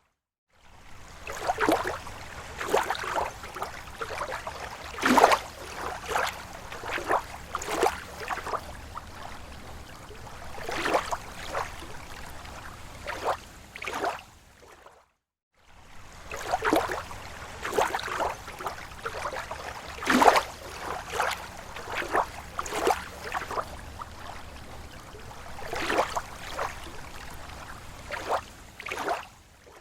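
Water lapping against a lake shore in small irregular slaps and splashes over a steady wash. It cuts out briefly at the start and again about halfway, where the recording loops.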